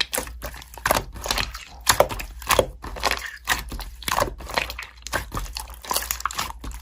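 Slime being squished and pressed by hand, giving an irregular run of crackling clicks and pops.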